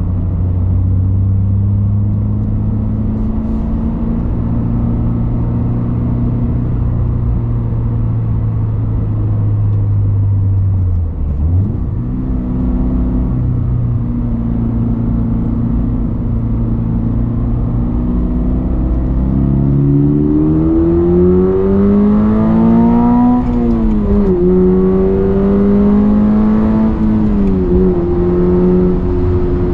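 Exhaust note of a Toyota GR86 / Subaru BRZ 2.4-litre flat-four through a straight-through COLBASSO Ti-R Plus titanium single-tail muffler. The car runs at steady revs with a brief break in the note about a third of the way in, then accelerates with the revs climbing and two quick upshifts near the end.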